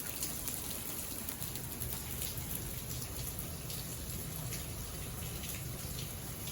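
Steady rain falling, with many distinct drop hits heard one by one over the even hiss.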